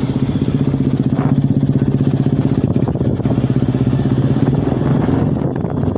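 Heavy diesel truck engine running steadily under load, with a fast, even throb.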